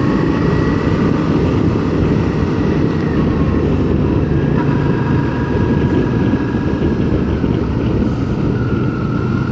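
Motorcycle engine running steadily at road speed, mixed with wind rush on the onboard microphone. A faint thin whine sits above it and shifts pitch twice.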